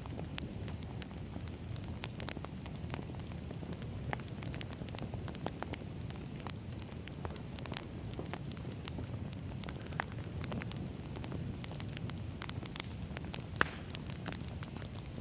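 Firewood burning: a steady low rumble of flames with scattered sharp crackles and pops, two louder pops about ten seconds in and near the end.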